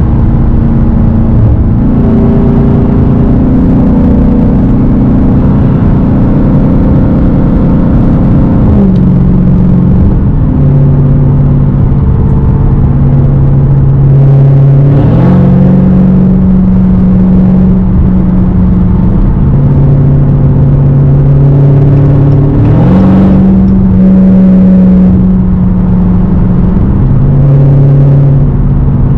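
Dodge Hellcat's supercharged 6.2-litre V8 with a straight-piped exhaust, droning steadily while driving. Its pitch steps up and down several times, with two quick rises in engine speed, one midway and one later on.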